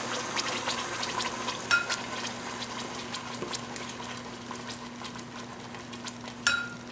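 Tomato-onion purée poured into hot oil in a saucepan, sizzling and crackling, the sizzle slowly dying down as the purée settles. Two short clinks, about two seconds in and again near the end.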